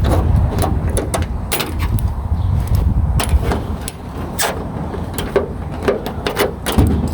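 A run of sharp metal clicks and clunks, several a second, as the pickup's pinned-down hood is unpinned and lifted open, over a steady low rumble.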